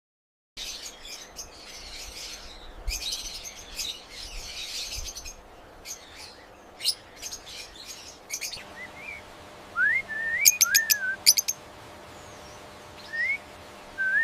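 Lovebirds calling: fast, dense high-pitched chattering and chirping for the first several seconds, then separate rising whistles and a few sharp chirps.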